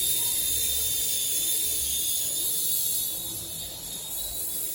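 Toy remote-control helicopter's small electric rotor motors running in flight: a steady high whine with a rushing hiss, slightly quieter from about three seconds in.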